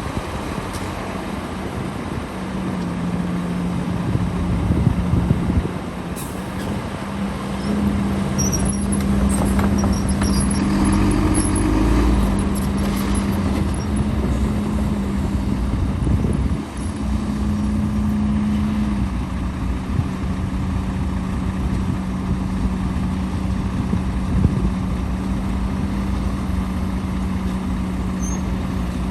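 Heavy diesel earthmoving machinery running steadily, its engine note stepping slightly up and down as it works.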